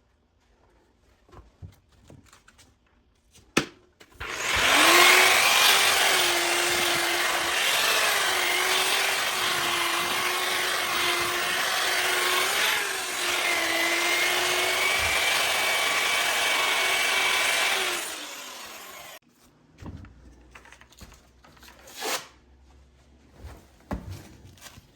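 Bauer variable-speed grinder with a sanding pad sanding a cast iron skillet. It spins up about four seconds in and runs with a steady whine over a gritty scraping for about fourteen seconds, then winds down. A few clicks and knocks come before and after it.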